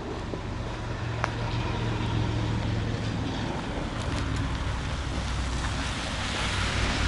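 A road vehicle passing, its rumble and tyre hiss building over several seconds and loudest near the end.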